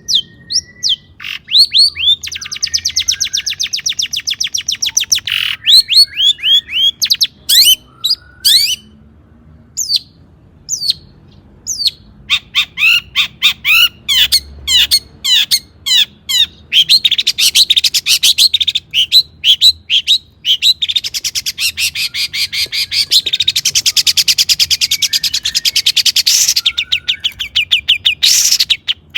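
Long-tailed shrike (cendet) singing loudly: quick runs of sharp, down-slurred high notes broken by fast rattling trills. There is a short lull about a third of the way through.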